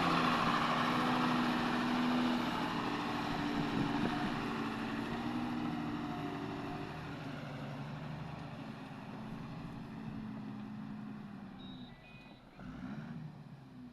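Engine of a heavy vehicle running steadily under load, fading gradually over about twelve seconds and dropping away near the end.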